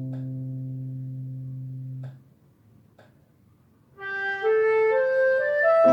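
Harmonica practice music. A held low note stops about two seconds in, followed by a short near-silent pause with a couple of faint clicks. About four seconds in, a rising melody of held, reedy notes starts.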